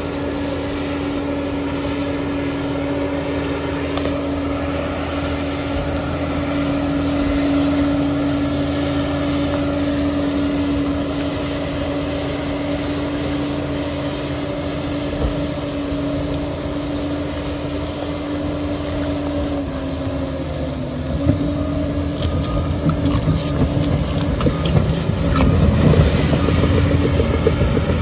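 Liebherr PR 746 crawler dozer working: its diesel engine runs steadily with a constant whine over a low rumble. About 20 s in the pitch dips, and irregular metallic clanking and rattling of the tracks and blade sets in and grows louder towards the end.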